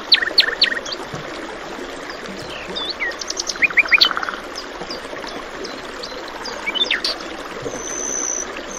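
Songbirds chirping and calling in short, quick series of notes over the steady rush of flowing stream water.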